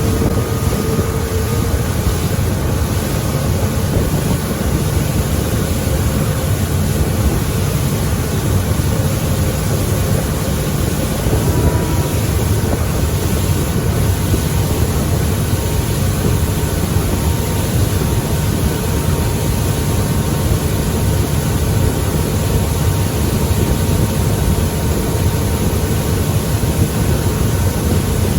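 Mercury 200 XL V6 outboard running steadily with the boat under way, a constant low drone with a steady rushing noise over it.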